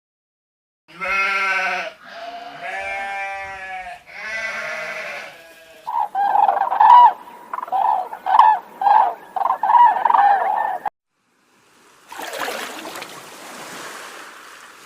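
Animal calls: three drawn-out, wavering calls in the first few seconds, then a quick run of short repeated calls, then a brief pause and a rustling hiss near the end.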